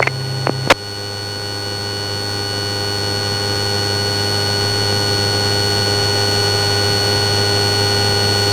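Steady drone and electrical hum of a patrol aircraft's cabin, heard through its on-board audio, with a low hum and a few fixed whining tones, slowly growing louder. Two short radio clicks come in the first second.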